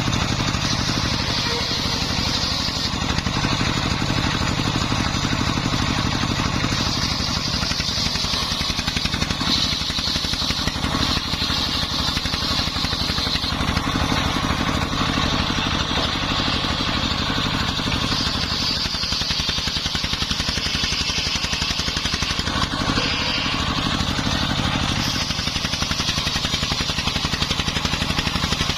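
Dongfeng 24 hp diesel engine running steadily, driving a homemade circular sawmill, with the saw blade's high cutting noise swelling and easing every few seconds as it rips through jowar wood.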